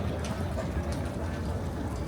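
City street ambience: a steady low rumble of traffic, with a few faint light ticks on top.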